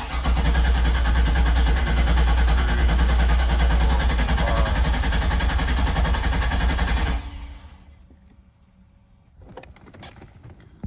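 A C5 Corvette's starter cranking the 5.7-litre V8 over with a steady, even pulse for about seven seconds without it firing, then stopping abruptly. The engine is being cranked with its fuses pulled to build oil pressure after an oil cooler install.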